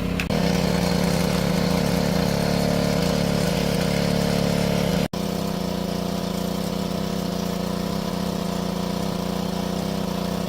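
Small engine running steadily at one even speed, a constant low drone. The sound drops out for an instant about five seconds in.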